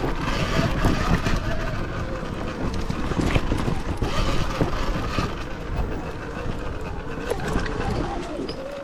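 Sur-Ron Ultra Bee electric dirt bike being ridden over rough ground: the electric motor's whine rises and falls with the throttle under a constant clatter of knocks and rattles from the bike over the terrain.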